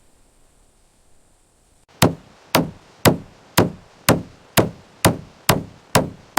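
Steady hammer blows starting about two seconds in, about two a second: nine sharp strikes, each with a short ring after it.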